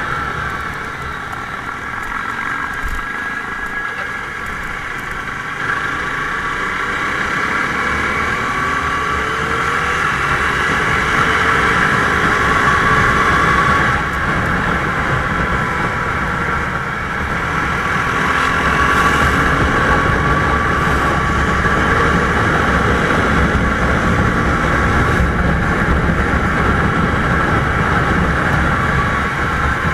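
Motorcycle engine running on the move, its pitch rising and falling a few times, over a heavy low rumble of wind and road noise.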